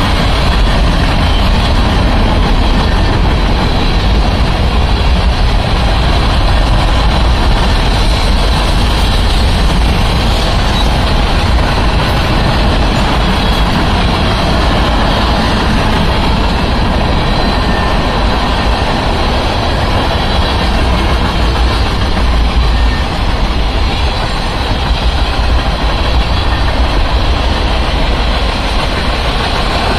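Freight train cars, tank cars and covered hoppers, rolling steadily past: a continuous loud rumble of steel wheels on the rails with a deep low drone underneath.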